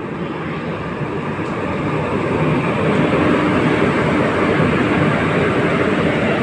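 WAP-4 electric locomotive passing close by, followed by its passenger coaches: the steady rumble of wheels on rail, with a low hum, growing louder over the first few seconds as the train draws alongside.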